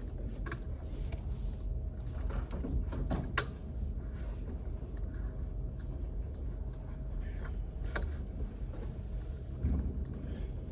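Library room tone: a steady low hum with scattered small clicks and knocks, and a soft thump near the end.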